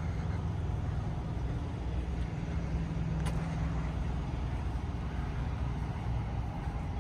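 Diesel semi-truck engine idling with a steady low rumble, and a single sharp click a little over three seconds in.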